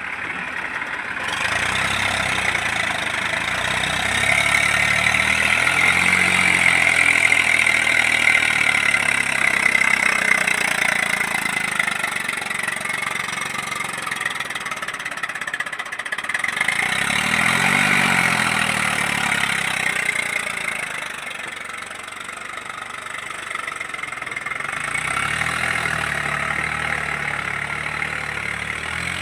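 Eicher 380 tractor's diesel engine running, its pitch and loudness rising and falling several times as it is worked up and eased off.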